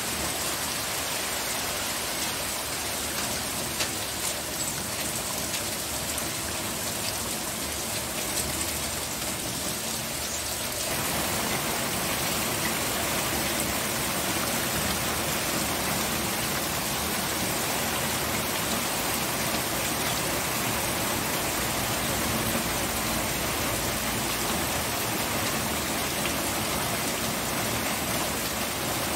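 Steady rain falling, an even hiss of many drops. About eleven seconds in it grows a little louder and fuller.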